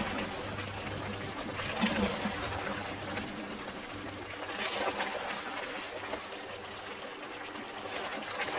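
Thick yogurt and cashew chicken curry gravy sizzling and bubbling in an uncovered pot as it fries on low heat, the oil separating to the top, with a low steady hum underneath and a couple of brief louder noises about two and five seconds in.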